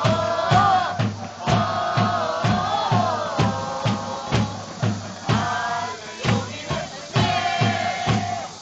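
Football supporters' group singing a chant in unison, backed by a bass drum beating about twice a second.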